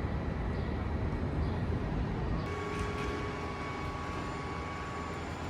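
Steady low rumble of a moving vehicle, with a steady whine joining about two and a half seconds in.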